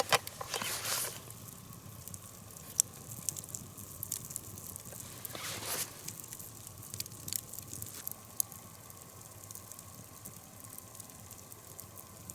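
Campfire crackling, with scattered sharp pops and small clicks and a couple of short rustles, one at the start and one about five seconds in.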